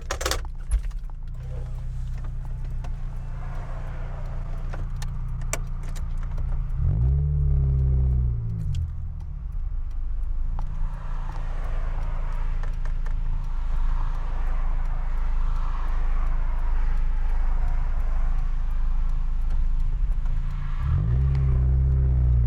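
Honda S2000's four-cylinder engine running, heard from inside the open car. There are a few sharp clicks near the start, and the revs climb twice as the car pulls away and accelerates, once about seven seconds in and again near the end. Wind and road noise grow louder once the car is moving with the top down.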